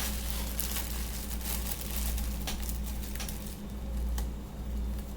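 Light kitchen handling sounds, a few scattered faint taps and rustles from taking out slices of bread, over a steady low hum.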